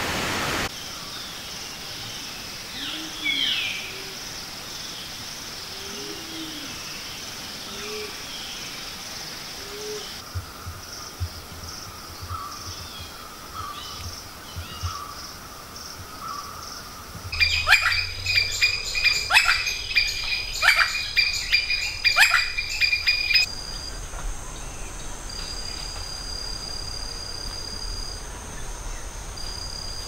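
Birds calling in tropical forest. A series of soft, low hooting notes comes over the first ten seconds. Past the middle, about six seconds of loud rapid clicks and high ringing tones follow, and near the end a thin high tone repeats.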